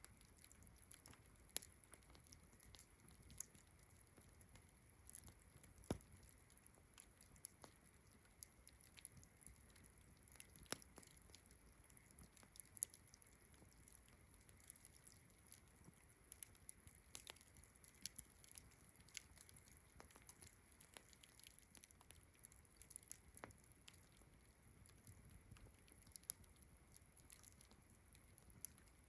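Wood campfire crackling with sharp, irregular pops, over a faint steady high chirring of distant crickets and frogs.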